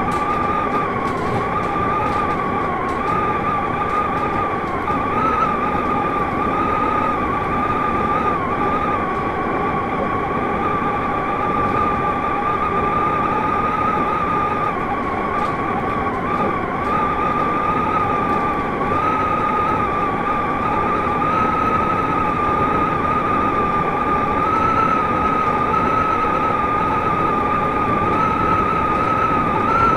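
Toei 5300 series electric train running at a steady speed, heard from the driver's cab with the cab window open: a continuous rumble of the running gear with a steady whine that wavers slightly in pitch.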